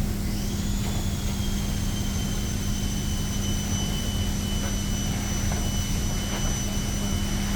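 Plastic welder running during a weld on a cracked plastic part: a steady hum with a high whine that rises about a third of a second in and then holds steady.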